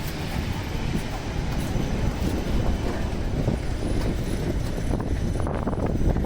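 Low, steady rumble of a heavy vehicle passing on a city street.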